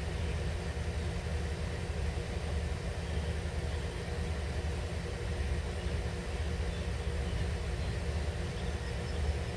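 Steady low outdoor rumble with a faint steady hum, unchanging throughout.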